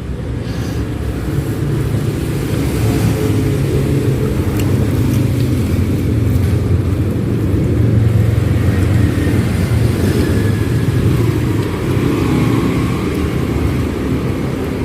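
Motor traffic passing close by on the road, a steady low engine rumble that swells to its loudest about eight seconds in and then eases off.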